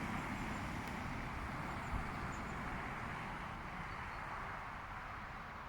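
Steady outdoor background rumble, like distant traffic, with a faint knock about two seconds in.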